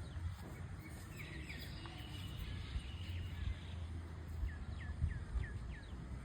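Outdoor ambience: a steady low rumble with small birds chirping, ending in a run of five quick falling chirps.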